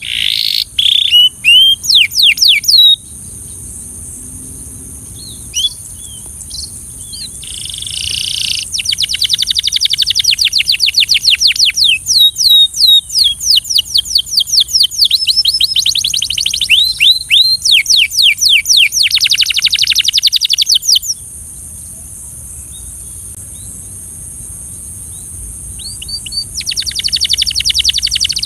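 Canary singing in long, fast trills of rapidly repeated high notes, breaking off twice for a few seconds with only scattered notes before resuming near the end.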